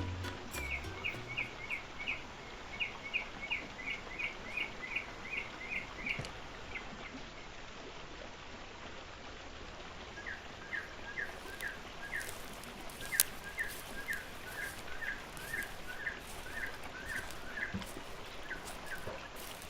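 A bird calling in two runs of quick, evenly repeated chirps, about three to four a second, the second run a little lower in pitch, over a steady outdoor hiss. A single sharp click about thirteen seconds in.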